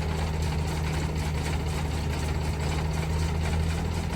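A vehicle engine idling with a low, even hum.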